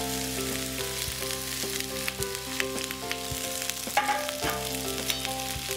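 Sliced vegetables sizzling in a hot black wok during a stir-fry, with a few light knocks of utensils against the pan. Soft background music plays underneath.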